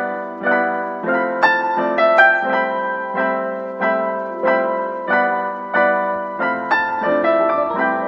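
Background piano music: a gentle keyboard melody with notes struck about twice a second, each ringing and fading.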